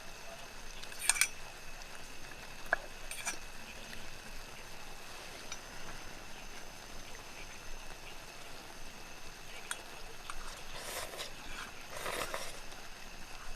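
Camp cooking: utensils on cookware, with a few sharp clinks in the first few seconds and scraping twice near the end, over a steady faint hiss.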